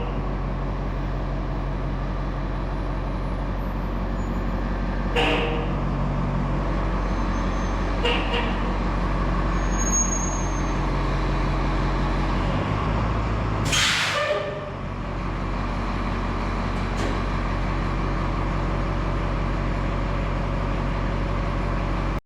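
Boom truck's engine running steadily as the truck is driven and backed into place, its note shifting briefly past the middle, with a short loud hiss of air about two-thirds of the way through.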